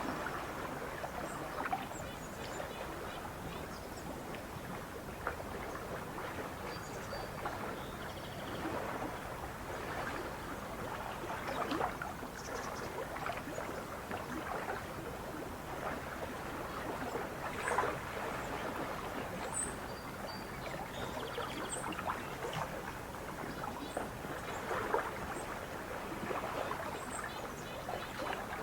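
Lake water lapping and splashing in small waves, a steady wash with a few louder splashes, and occasional short high bird chirps.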